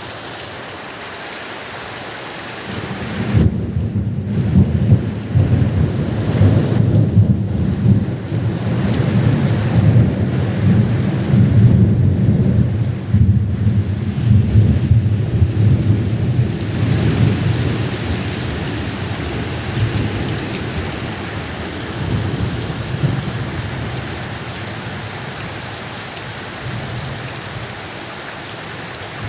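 Steady rain falling, with a long roll of thunder that comes in about three seconds in, rumbles on through the middle and slowly fades away near the end.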